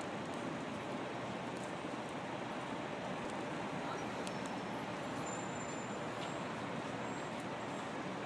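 Steady city street traffic noise, a continuous hum of passing vehicles, with a few louder irregular sounds near the end.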